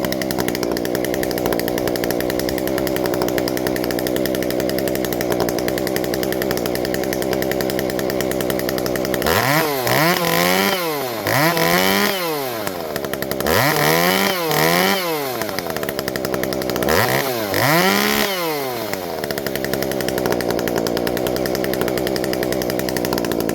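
Warmed-up ported Shindaiwa 390sx two-stroke chainsaw idling steadily, then revved up and back down several times in quick blips before settling back to idle near the end.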